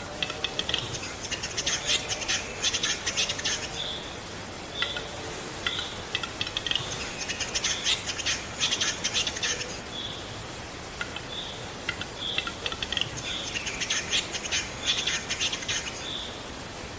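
A songbird singing: three bursts of rapid chattering notes, each about three seconds long and about six seconds apart, with short single whistled notes between the bursts.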